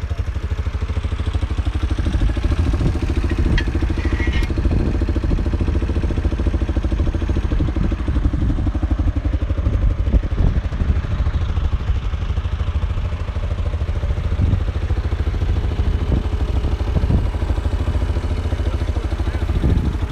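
Yamaha Big Bear 350 quad bike's single-cylinder four-stroke engine running steadily at idle, with some light clatter.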